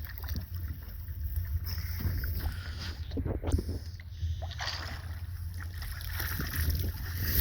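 Water sloshing and small knocks around a kayak in shallow water, with a steady low wind rumble on the microphone.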